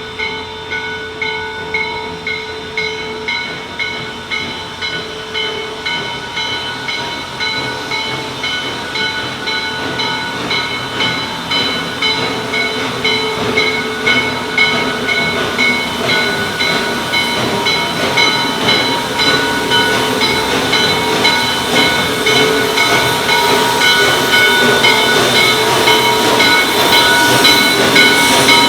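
Chesapeake & Ohio 1309, a 2-6-6-2 Mallet steam locomotive, approaching with its bell ringing at an even, steady pace and steam hissing, growing steadily louder as it draws near.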